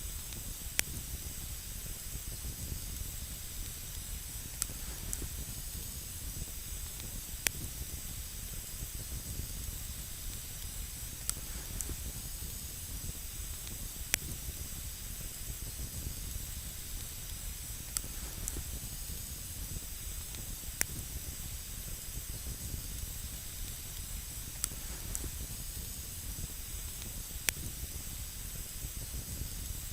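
Wood campfire burning: a steady hiss with a low rumble underneath, and single sharp crackles from the burning wood about every three seconds.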